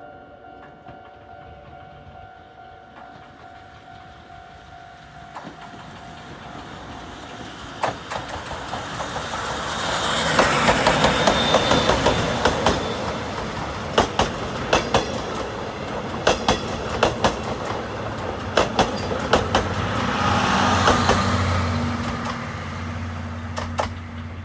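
Chichibu Railway steam locomotive and its train passing close by: the running noise swells about a third of the way in, then wheels clack repeatedly over the rail joints as the cars go by, dying down near the end.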